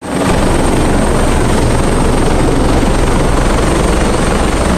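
Rescue helicopter running close by: loud, steady rotor and engine noise with a deep rumble and a thin, steady high whine above it.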